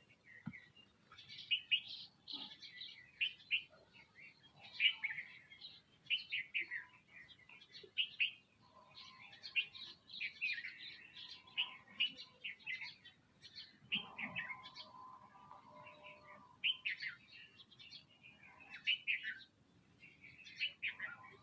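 Small birds chirping, a dense run of quick short calls with hardly any gap.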